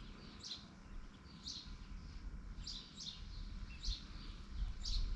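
A small bird chirping repeatedly, short high chirps about once a second, over a low rumble that grows louder near the end.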